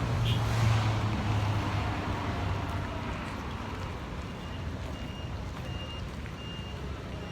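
Street traffic: a vehicle's engine hum, strongest at the start and fading over the first few seconds, over a steady wash of traffic noise. Faint short high beeps repeat several times in the second half.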